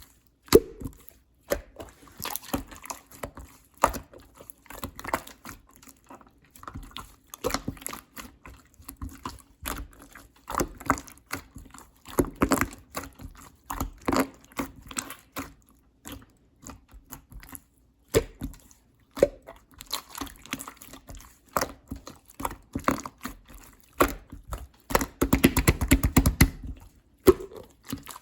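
Clear slime being squished and pressed by hand: irregular sticky, wet clicks and air-pocket pops, with a dense run of rapid crackling about 25 seconds in.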